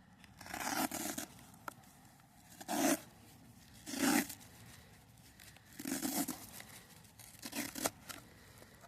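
Packaging being torn open by hand in five separate short rips, a second or more apart.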